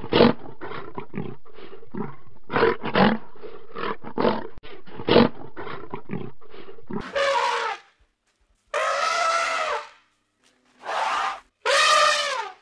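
Animal calls: a quick run of short, rough grunting calls for about seven seconds, then four longer, pitched bleating calls with short pauses between them.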